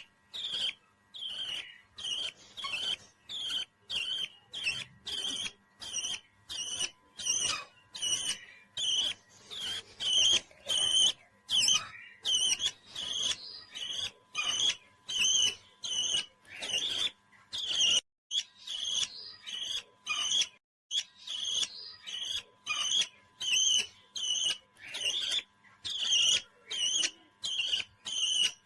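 A pet parrot calling in a long, very regular series of short, high chirps, about two a second, pausing briefly a couple of times midway.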